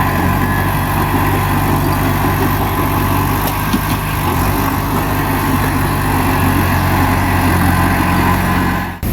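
Bulldozer's diesel engine running steadily at a constant speed.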